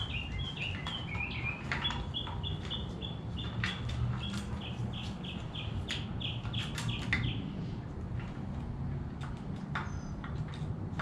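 A songbird singing a rapid series of repeated short chirps, about three a second, that stops about seven seconds in; a few brief high notes follow near the end. Scattered light clicks and knocks and a steady low hum sit underneath.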